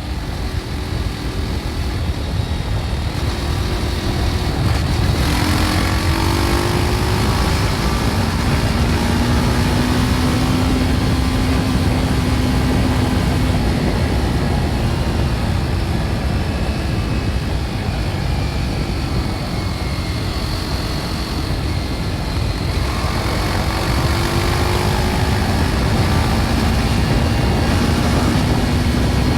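BMW G310 R's single-cylinder engine through its original exhaust, riding under way: the engine note climbs about five seconds in and again past twenty seconds, holding steady between, over a steady low rush.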